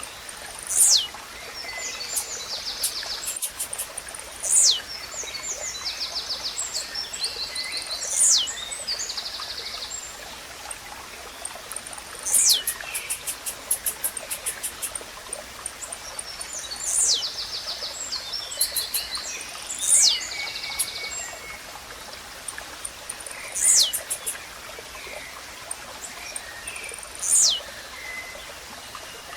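Blue-black grassquit (tizil) singing its short, sharp downward-sweeping note, eight times at intervals of about three to four seconds. Between the notes other small birds chatter in rapid ticking trills over a steady background hiss.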